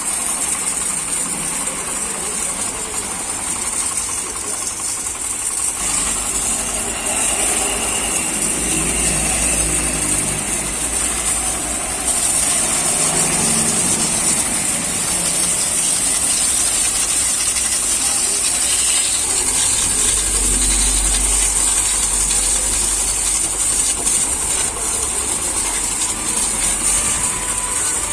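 High-pressure water spray hissing steadily while a tractor is washed, over a low motor hum that grows louder about six seconds in and again about twenty seconds in.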